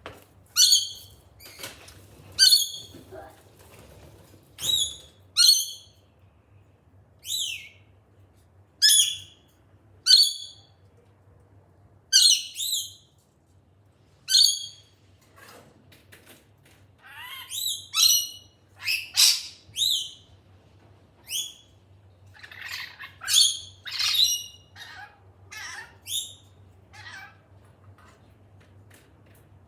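Pet lorikeets giving loud, short, shrill squawks, roughly one a second at first, then in quicker clustered runs in the second half.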